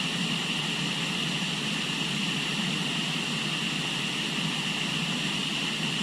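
Steady rushing of river water, with a continuous high-pitched hum running alongside it.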